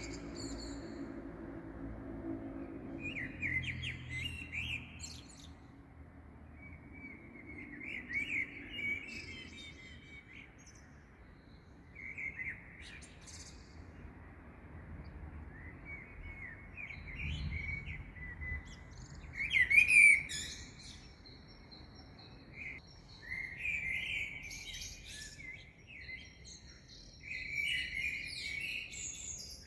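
Small songbirds chirping and singing in short, varied phrases every few seconds, the loudest burst about two-thirds of the way through, over a faint low rumble that fades after the first few seconds.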